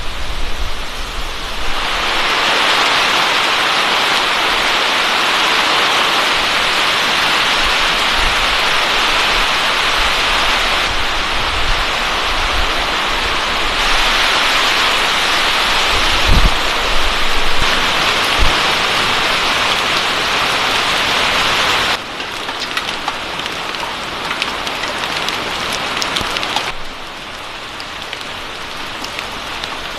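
Heavy rain falling, a steady hiss whose loudness jumps up or down abruptly several times, with a brief low thump about 16 seconds in.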